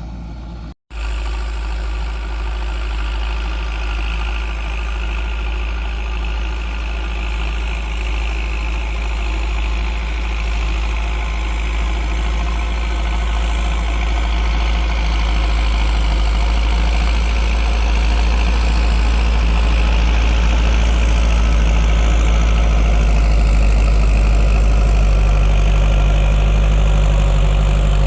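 Landini 9080 tractor's diesel engine running steadily, growing slightly louder toward the end. The sound drops out for an instant about a second in.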